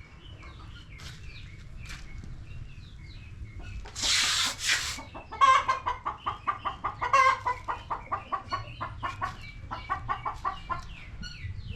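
A sick hen clucking rapidly and repeatedly, about four to five clucks a second, as she is held and dosed with a liquid remedy from a spoon. A brief rustling burst comes about four seconds in, before the clucking starts.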